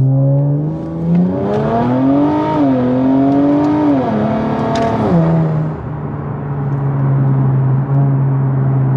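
Infiniti Q50 Red Sport's VR30 twin-turbo V6, running full catless downpipes, accelerating hard, heard from inside the cabin. The engine note climbs, dips, climbs again, then drops back to a steady cruise about five seconds in.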